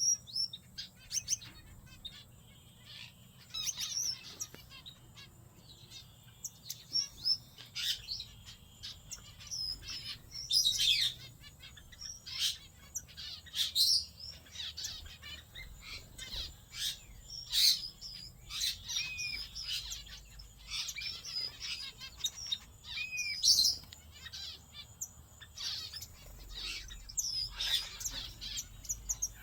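A mixed aviary of small estrildid finches chirping: many short, high calls overlapping at an irregular pace.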